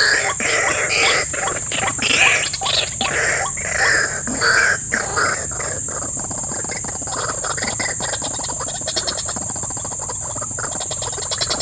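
Swamp-side animal chorus: a steady high insect drone, with loud, irregular calls and clicks in the first half that give way to a rapid pulsing trill near the end.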